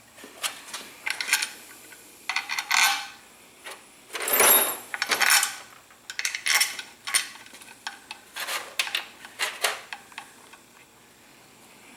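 Metal tools and engine parts clinking and clattering in irregular bursts as they are handled, with the loudest clatter about four and a half seconds in.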